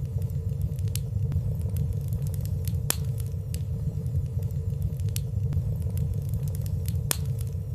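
Wood fire burning in a fireplace: a steady low rumble of flames with scattered small crackles, a slightly sharper one about three seconds in and another about seven seconds in.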